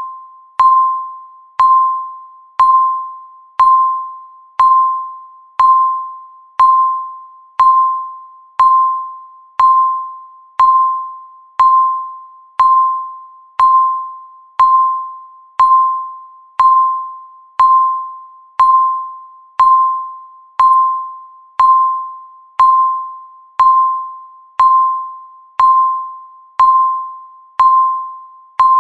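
Digital countdown timer's tick sound: a short, bell-like ding at one pitch, struck once every second and fading away before the next.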